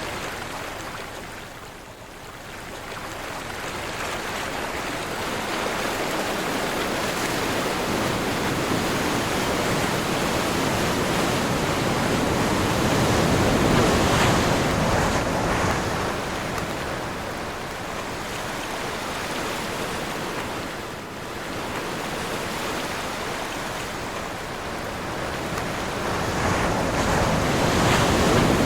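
Ocean waves breaking and washing in, in slow surges that swell and fade over several seconds, the biggest about halfway through and again near the end, with wind blowing across the sea.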